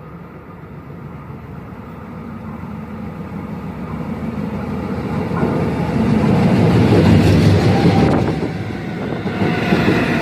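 Seoul Line 1 electric multiple-unit train approaching along the track, its wheel-on-rail rumble growing steadily louder, loudest about two-thirds of the way in, with a faint steady whine joining near the end.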